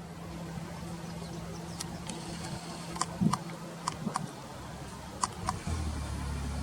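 Short sharp bird calls in quick pairs, repeated several times over a steady low hum; a vehicle engine comes in near the end.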